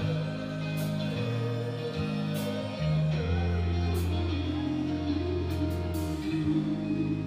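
Live rock band playing heavy guitar and bass chords, held for a second or two each, with cymbal crashes every second or so.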